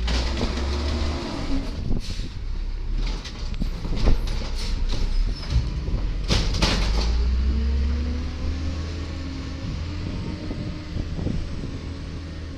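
Diesel engine of a 1999 Volvo automated side-loader garbage truck running and revving up and down, with several metallic knocks and bangs.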